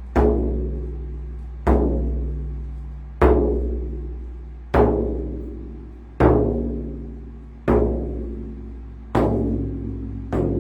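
Slow, steady drum beats, about one every second and a half, each a sharp strike that rings deep and fades away before the next.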